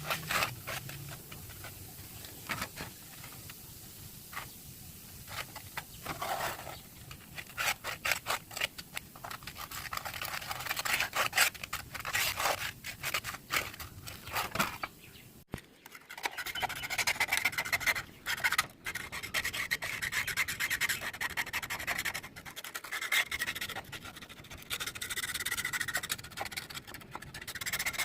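Hand rubbing and scraping on a rusty steel hand-saw blade, as in sanding or scraping off rust: short strokes at first, coming faster, then longer continuous strokes in the second half.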